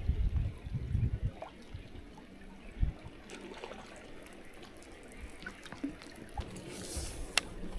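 Water trickling and dripping, with scattered small ticks and one sharp click near the end.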